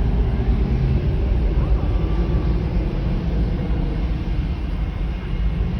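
Boeing 737-800's CFM56 jet engines at takeoff power as a deep, steady rumble, slowly fading as the airliner climbs away.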